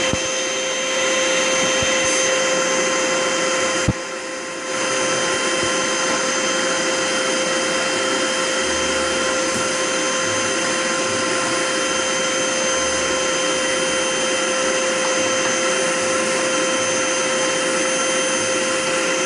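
Vacuum cleaner running with a steady motor whine. About four seconds in comes a sharp knock, and the sound dips briefly before returning to full. Occasional soft low bumps follow.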